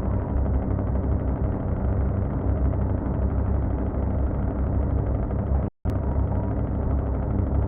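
A truck engine running steadily at a low, even pitch. The sound drops out completely for a split second about three-quarters of the way through, then resumes unchanged.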